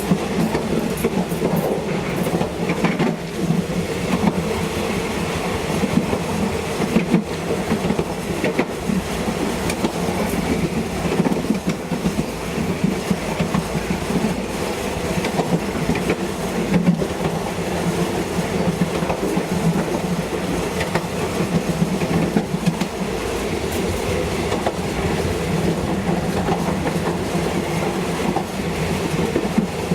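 A train running along the track, with a steady rumble and now and then the click of wheels over rail joints.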